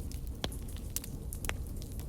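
Wood fire burning in a fireplace: a low rumble of flames with irregular sharp crackles and pops, the strongest about half a second and a second and a half in.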